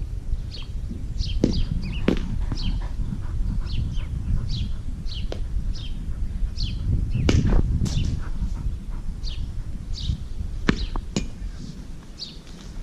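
Birds chirping in short, high, falling notes, one or two a second, over a constant low rumble of wind and camera movement, with a few sharp knocks.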